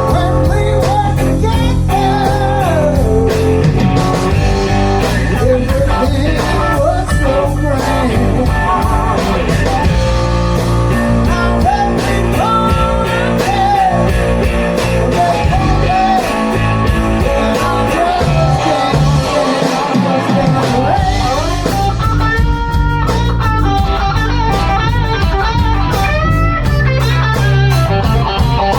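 Blues band playing a slow song: a lead guitar plays bending, sliding notes over bass and drums.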